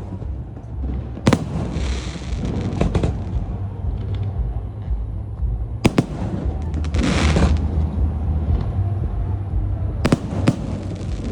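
Fireworks display: aerial shells going off with sharp bangs about a second in, around six seconds in and twice in quick succession near the end. Between them come two longer hissing, crackling bursts, around two and seven seconds, over a steady low rumble.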